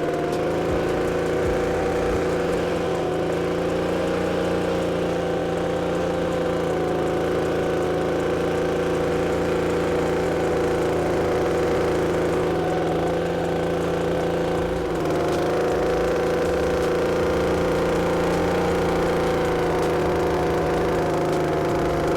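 Air blower running steadily with a constant whirring pitch, blowing rinse water out of an engine bay's crevices. Its level and pitch dip slightly about fifteen seconds in.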